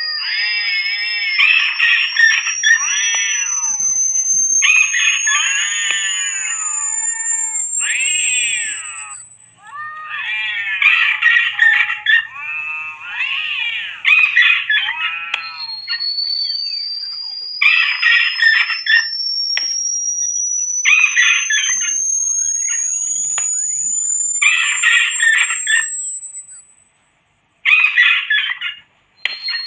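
Rodent-repeller sound track: repeated bursts of shrill animal screeching, a mix of rat screams and cat cries, over an electronic tone that glides steadily upward and restarts about every 14 seconds.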